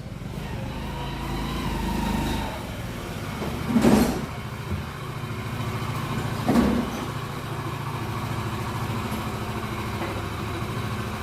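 Old Bajaj Pulsar's single-cylinder engine running steadily, with two short loud bursts about four and six and a half seconds in. The mechanic links bad noise like this to a broken timing-chain guide.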